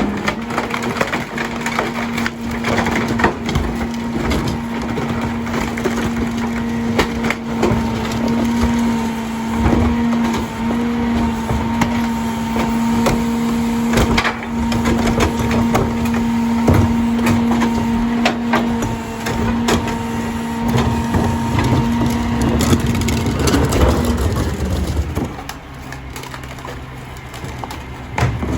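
Heil DuraPack 5000 rear loader packing a load: material cracks and snaps under the packer blade over the steady tone of the truck's engine and hydraulic pump held at raised revs. The tone drops away about 24 seconds in as the cycle ends, leaving the truck running more quietly.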